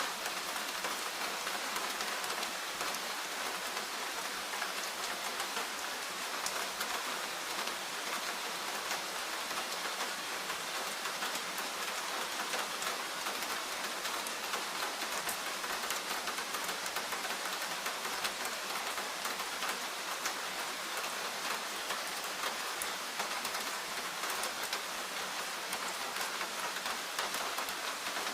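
Steady rain falling, a dense, even patter of countless small drop impacts without a break.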